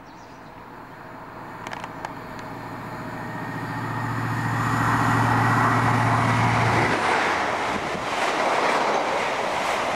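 A diesel passenger train approaches and passes at speed. Its engine hum and the rushing of wheels and air build up over about five seconds. The hum cuts off about seven seconds in as the front of the train goes by, and the rush of the coaches carries on.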